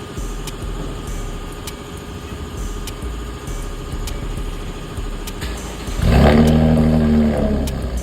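Chevrolet Camaro 3.6-litre V6 with an aftermarket Camaro SS quad-tip exhaust, running steadily at a low speed, then revved hard about six seconds in, the pitch climbing and then dropping back.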